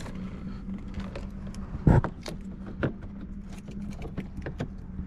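Clicks, rattles and light knocks of wiring and plastic dash parts being handled in a car's dashboard, with one louder knock about two seconds in. A steady low hum runs underneath.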